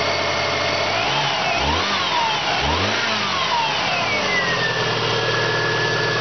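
Subaru EJ22 2.2-litre flat-four idling a little high in the cold, at about 900 to 1100 rpm. It is blipped twice at the throttle, each rev rising and falling back, and settles to a steady idle about five seconds in.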